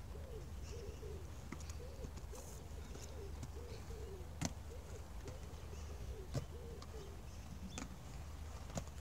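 A bird cooing over and over, a run of short rising-and-falling notes about two a second that fades out near the end. A few sharp knocks and a low steady rumble sound underneath.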